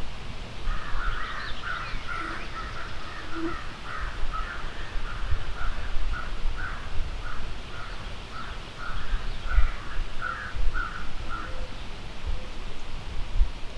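A bird calling a long series of harsh notes, about two a second, that stops near the end. Low wind rumble on the microphone underneath.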